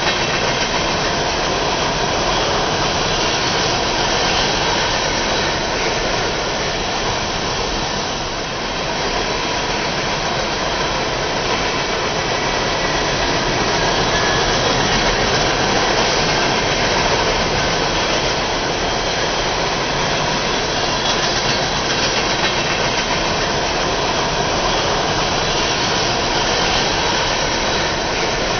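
HO scale model train running, a steady even drone with no breaks.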